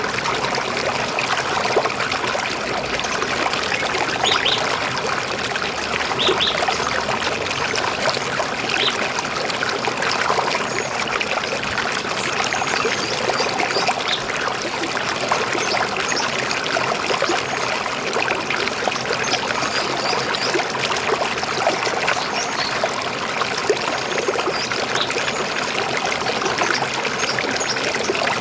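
River water flowing and trickling steadily. A few brief high-pitched sounds stand out about four, six and nine seconds in.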